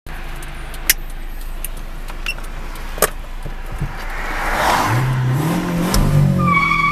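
A Chevrolet car's engine heard from inside the cabin, idling with two sharp clicks, then revved up about five seconds in. Near the end a steady high-pitched squeal starts, tyres spinning as the car launches from standstill.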